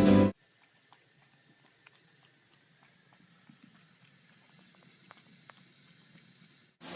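Faint steady hiss with scattered light clicks, after a burst of music cuts off abruptly at the start.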